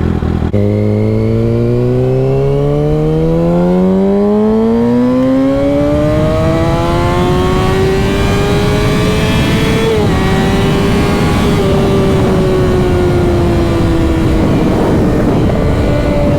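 Motorcycle engine under acceleration, its pitch rising steadily for about ten seconds, then holding and easing off a little, over rushing wind noise.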